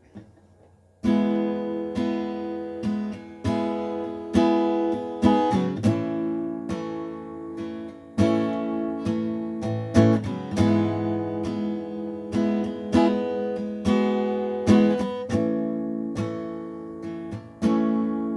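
Acoustic guitar strummed as a song's instrumental intro: ringing chords with sharp, accented strokes, starting about a second in after near silence.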